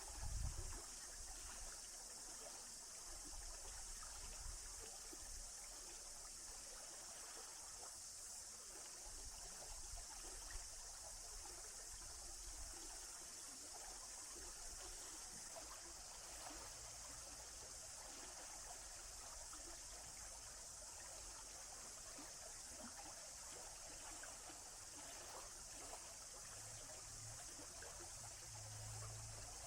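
A stream flowing and trickling steadily, with a brief low thump just after the start.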